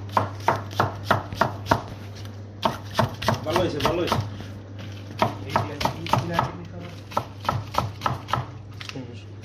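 Kitchen knife chopping green onions on a cutting board: quick, even knocks about three a second, pausing briefly a couple of times.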